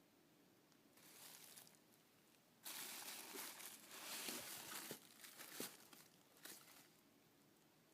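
Packaging being handled and crinkled during an unboxing, in a short rustle, then a longer, louder stretch of crinkling and a few fainter rustles near the end.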